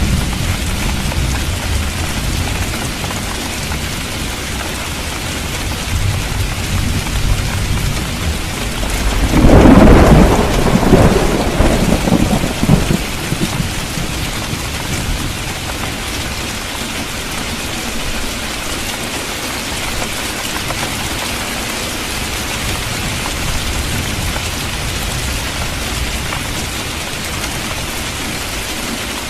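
Rain falling steadily, with a roll of thunder about ten seconds in that swells louder for around three seconds and then dies back into the rain.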